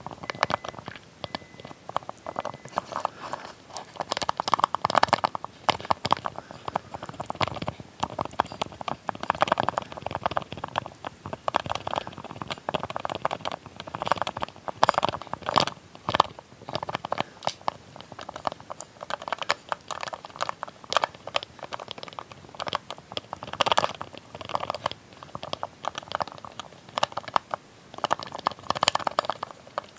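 A small lid handled close to the microphone for ASMR: rapid clusters of sharp clicks, taps and crackles, coming in irregular bursts.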